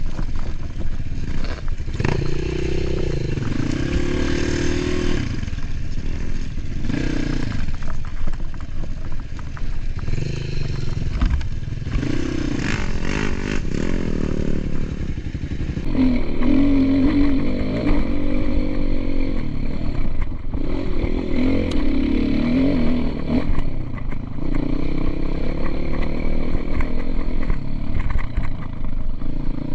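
Motocross dirt bike engine revving, its pitch rising and falling again and again as the throttle is worked; a little louder from about halfway on.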